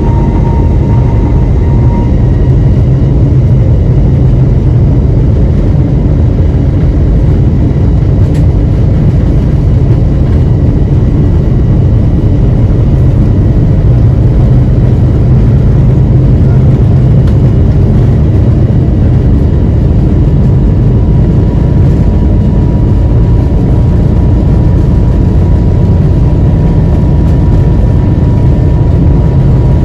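Steady loud cabin noise inside an Airbus A321neo airliner: an even, deep rumble of the jet engines and airflow, with faint steady whine tones above it.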